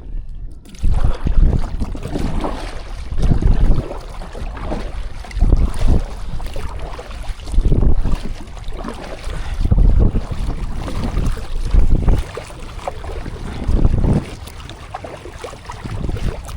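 Wind buffeting the microphone on open water, surging in gusts about every two seconds.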